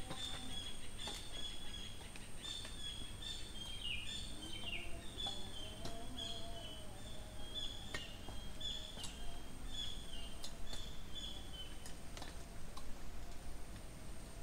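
A bird calling in a quick series of short high chirps, about two a second, that stops near the end, with a second, lower warbling call partway through. Under it runs a steady high-pitched whine, with a few faint clicks.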